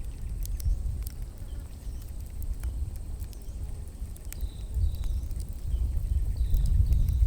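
Wood fire crackling with sparse sharp pops over a low rumble that grows louder toward the end. Short high bird chirps come in during the second half.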